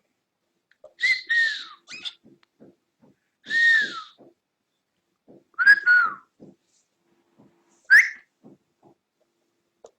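Cockatiel calling: four loud whistled calls a couple of seconds apart, the first three falling in pitch and the last rising quickly. Faint light clicks sound between them.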